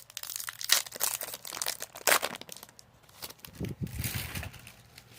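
Foil Pokémon booster pack wrapper crinkling and being torn open: a quick run of sharp crackles and rips, easing into softer rustling of the wrapper and cards.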